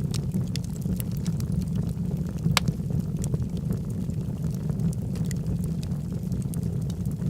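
Wood fire burning in a fireplace: a steady low rush of flames with scattered crackles and pops from the burning logs, one sharper pop about two and a half seconds in.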